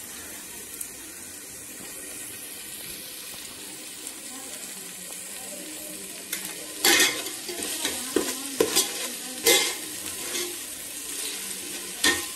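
Onions and ginger-garlic paste sizzling in hot oil in a metal pot, being fried until browned. From about halfway, a perforated steel ladle stirs the mix and scrapes against the pot in several loud strokes.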